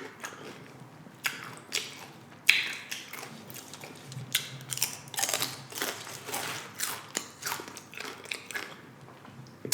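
Chewing of loaded nacho tortilla chips: a run of irregular crisp crunches, several a second.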